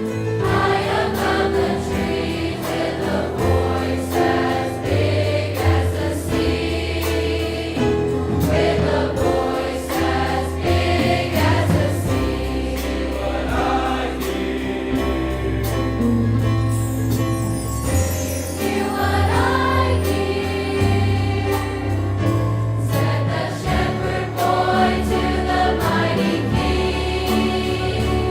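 A large high school choir singing a Christmas song with instrumental accompaniment: held bass notes underneath and a steady percussive beat throughout.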